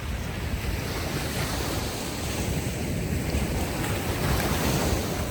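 Ocean waves washing onto a beach, with wind buffeting the microphone; the surf swells a little near the end.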